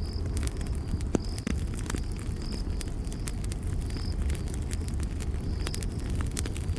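Campfire crackling with frequent sharp pops over a steady low rumble of the flames. A short high chirp, like an insect's, recurs about every second and a half in the background.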